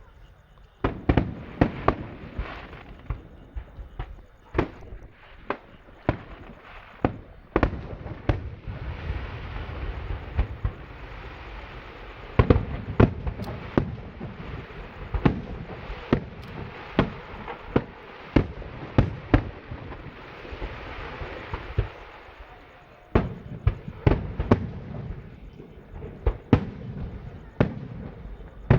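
Aerial fireworks shells bursting in a rapid, irregular series of sharp bangs. About a third of the way in and again about two-thirds in, a dense crackle fills the gaps between the bangs.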